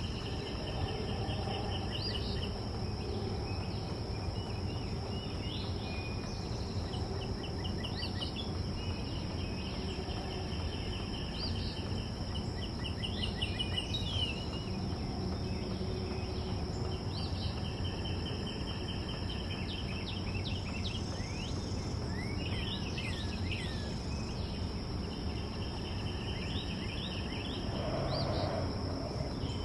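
Backyard ambience: a steady high-pitched insect drone, with short trilled bird songs repeating every few seconds and a few quick chirps, over a steady low rumble.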